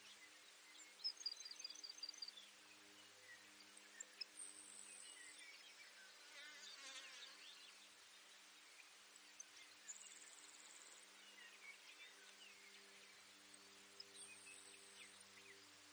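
Faint Baird's sparrow song: a run of short, high, thin notes and short high buzzy trills, repeated every few seconds. A faint low steady hum lies under it.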